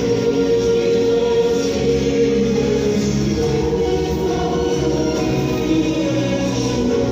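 A choir singing in harmony, with long held notes.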